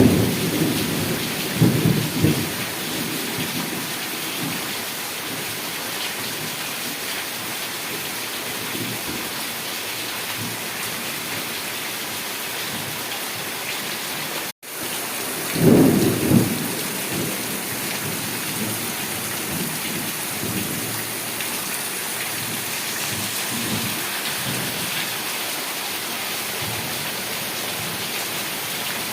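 Heavy rain falling steadily, with low rumbles of thunder at the start and again about halfway. The sound cuts out for an instant just before the second rumble.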